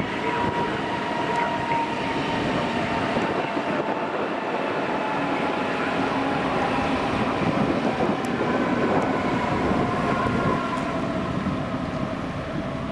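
Train moving through a station: a steady rumble of wheels on the rails with a faint high whine over it.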